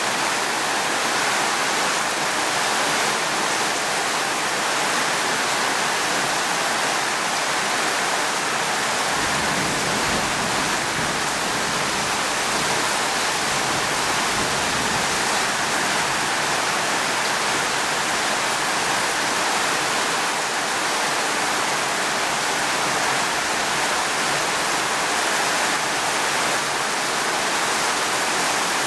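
Steady heavy rain, an even rushing hiss with no breaks. A faint low rumble swells briefly about ten seconds in.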